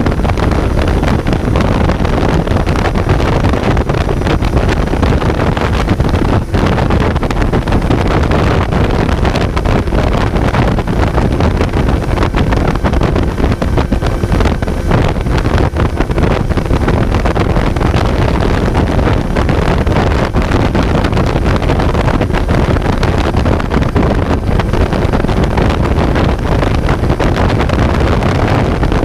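Kawasaki Z900 motorcycle's inline-four engine running under way, heard onboard with heavy wind noise on the microphone.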